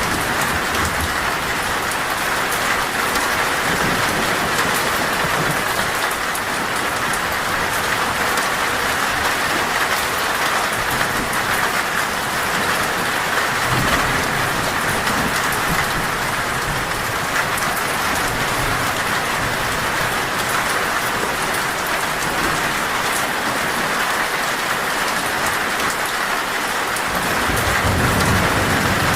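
Heavy rain drumming steadily on a metal roof, with low rolls of thunder rumbling about halfway through and again near the end.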